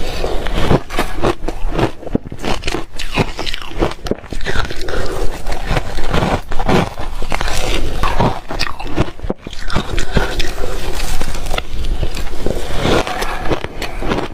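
A person biting and chewing reshaved refrigerator ice close to the microphone, with many irregular loud crunches and crackles.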